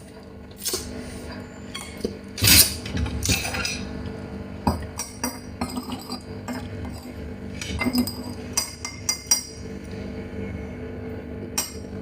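Scattered sharp clicks, clinks and cracks from handling and breaking open a cooked Chinese mitten crab, with the loudest crackle about two and a half seconds in.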